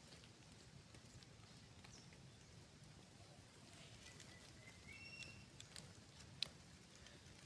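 Near silence: faint background with scattered light clicks, one sharper click near the end, and a brief faint high chirp rising in pitch a little past the middle.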